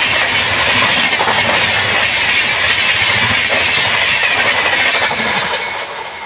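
A passenger train's LHB coaches passing close at speed: a loud rushing noise with the wheels clattering rapidly over the rails. It begins to fade about five and a half seconds in as the last coach goes by.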